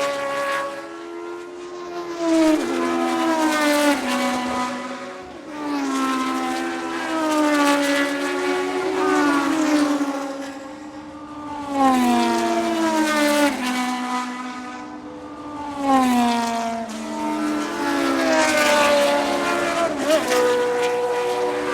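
Vintage Formula 1 race cars passing one after another at speed. Each engine's high, many-toned note drops in pitch as a car goes by, with several passes in a row.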